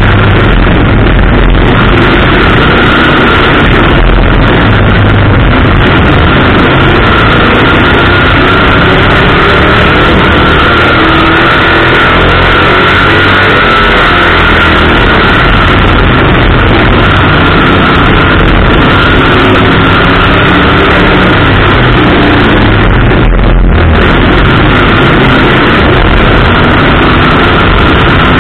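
Onboard race car engine running hard as the car laps an oval, its pitch rising and falling through the turns. Loud and continuous throughout.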